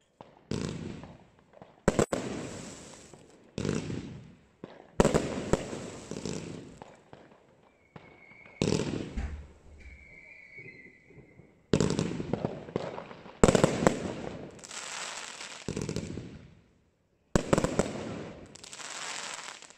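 Evolution Fireworks Acatenango firework going off in volleys: about eight sharp bangs, each trailing off in a fading crackle and hiss, with short pauses between them.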